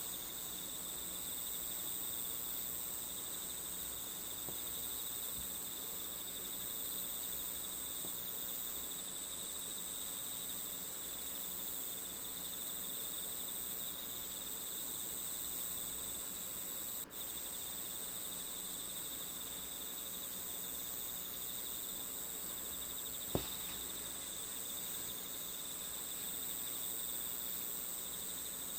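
Crickets chirping in a steady, continuous high trill. A single sharp click sounds about three-quarters of the way through.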